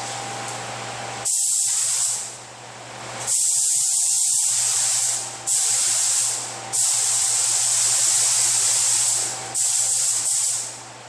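Air spray gun spraying paint onto a body panel in five trigger pulls, each a loud hiss of one to two and a half seconds with short breaks between.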